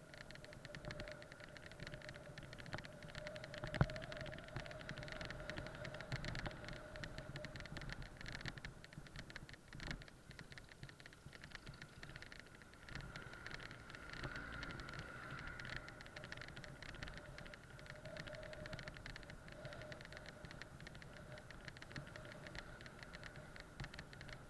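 Faint riding noise from a bike on the road: a steady whine under a constant light rattle of small clicks, with one sharper knock about four seconds in.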